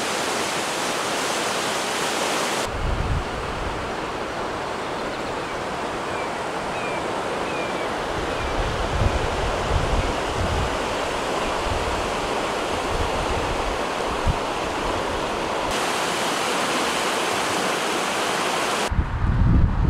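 Fast, high water rushing steadily in a flood-swollen creek, with wind gusting on the microphone at times. The sound changes abruptly at a few points.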